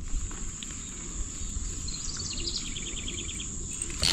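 Outdoor lakeside ambience: a steady high insect drone over a low rumble, with a short run of quick ticks or chirps a little past halfway.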